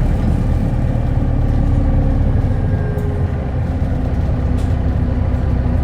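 Hino Blue Ribbon Hybrid city bus's diesel-hybrid drivetrain running steadily, heard from inside the passenger cabin as an even low rumble.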